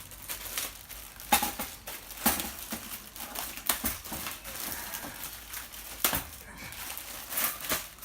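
Thin steel parts of a small folding fire stand clinking and clattering as they are handled, with a few sharp knocks, one of which rings briefly, and some light rustling.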